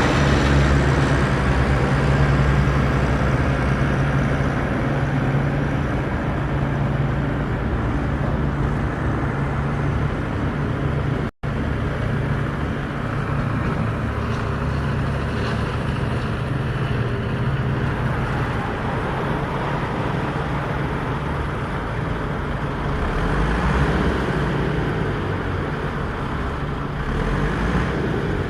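Mahindra tractor's diesel engine running steadily while pulling a cultivator, with a momentary break in the sound about eleven seconds in.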